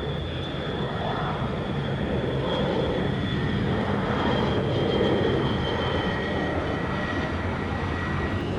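Jet airliner engines running, a steady rumble with a high whine that falls slightly in pitch. It grows to its loudest about five seconds in, then eases a little.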